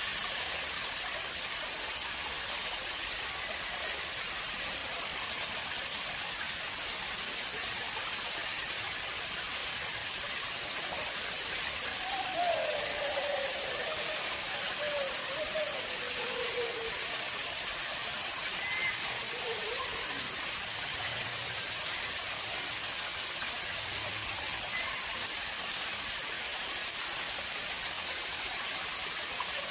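Water flowing steadily in an artificial pond, an even rushing hiss. A faint wavering sound drifts downward in pitch around the middle.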